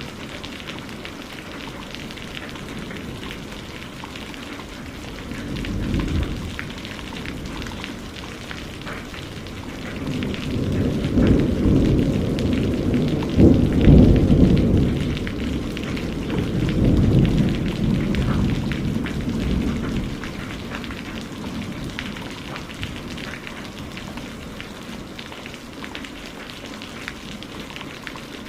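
Steady rain falling, with a long rumble of thunder that swells up about a third of the way in, is loudest around the middle and dies away by about two-thirds through; a shorter, fainter rumble comes a few seconds before it.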